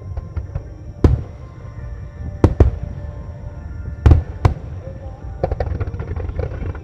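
Aerial firework shells bursting in a starmine barrage: several loud booms spaced a second or more apart, then a quick run of smaller crackling pops near the end. Music plays underneath.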